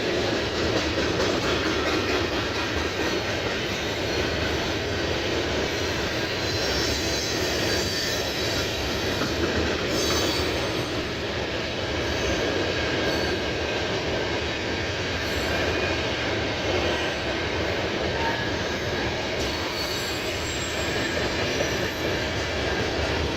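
A freight train's wagons rolling steadily past on the track, with a continuous rumble and brief faint wheel squeal a few times along the way.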